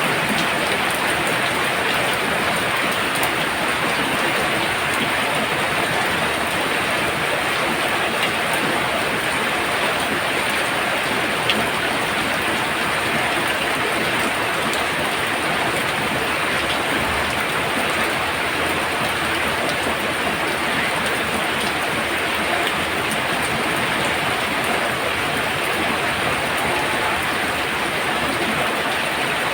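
Heavy rain pouring down steadily, a dense even hiss, with one brief sharp tick about eleven seconds in.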